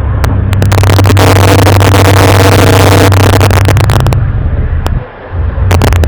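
Loud, distorted low droning hum with a noisy metallic overlay and crackles, of the kind shown as an unexplained 'strange sound from the sky'. It drops out briefly about five seconds in, then returns.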